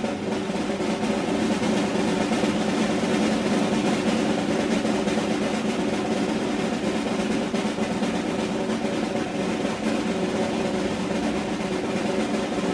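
A long, steady snare drum roll that starts suddenly just before and keeps going without a break.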